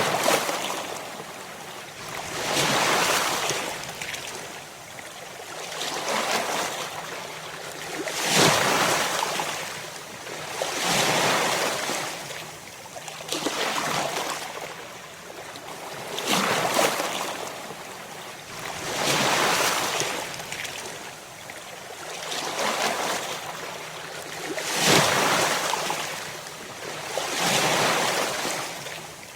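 Ocean waves breaking and washing in, each surge of surf swelling up and fading away again every two to three seconds.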